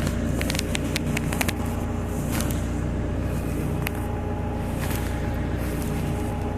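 Perkins diesel of a 1988 JCB 3CX backhoe idling steadily. Over the first two and a half seconds, sharp metal clinks sound as a steel release bar is fitted into the cast-iron manual quick hitch to lever the jaw open.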